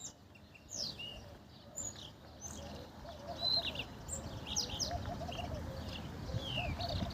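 European goldfinch singing: a run of quick, high, twittering chirps and short pitch slides. A faint low wavering tone runs underneath from about three seconds in.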